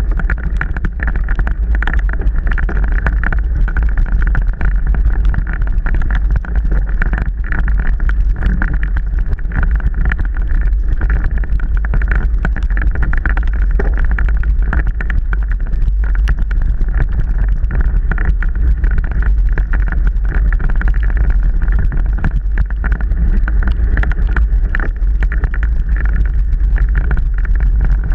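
Mountain bike being ridden over a rough trail: a steady heavy rumble of wind on the microphone, with constant small rattles and knocks from the bike and tyres.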